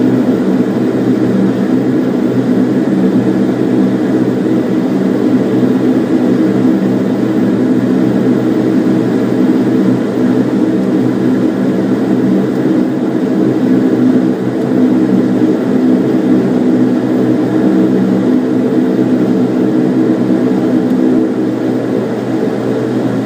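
Steady drone of a Bombardier Dash 8's twin turboprop engines and propellers heard inside the passenger cabin: a low, even hum made of several pitched tones over a rush of noise. The loudness dips slightly around a third and again around halfway through.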